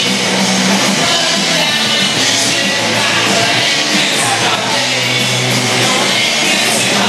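Live punk rock band playing loud and without a break, with singing over it.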